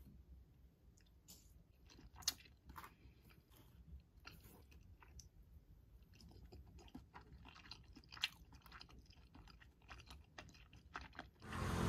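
Close-miked, faint chewing and wet mouth sounds of someone eating a siu mai dumpling, with a couple of sharper clicks about two and eight seconds in. Near the end it gives way abruptly to loud street noise.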